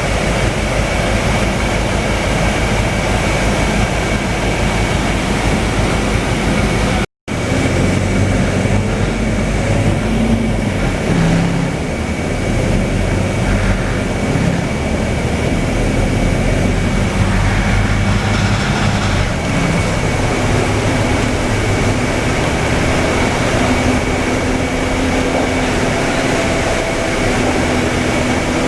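Scania K320UA city bus heard from inside the passenger cabin while driving: engine and road noise with a steady high whine. The sound drops out completely for a moment about seven seconds in. Afterwards the engine note rises and falls as the bus changes speed.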